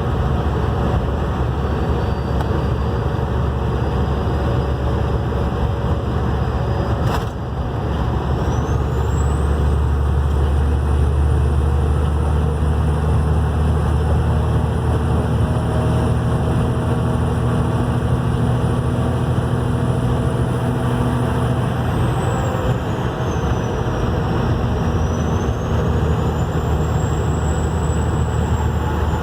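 Vehicle engine with compound turbochargers running, a high turbo whistle over the low engine drone. After a short click and dip about seven seconds in, the whistle climbs steeply and holds, then falls away and rises again near the end.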